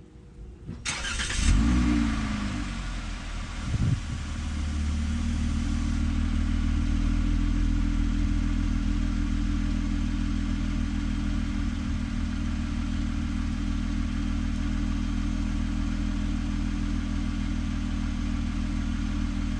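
2025 RAM Promaster's 3.6 L Pentastar V6 starting up: the revs flare briefly about a second in, then settle into a steady idle with the engine at operating temperature.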